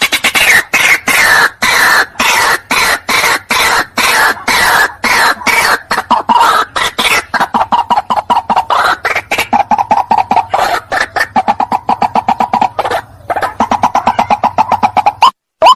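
White-breasted waterhen calling: a rapid, dense run of harsh repeated notes, several a second, that breaks off near the end, where a cleaner single rising note starts.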